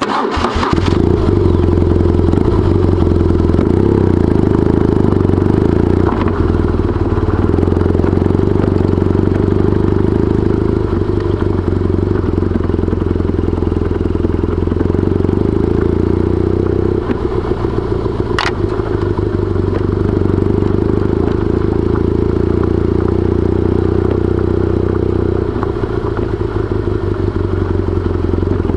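BMW R1200GS boxer-twin engine running steadily under way, with a steady rush of wind and road noise. It starts abruptly, and there is one short sharp click about eighteen seconds in.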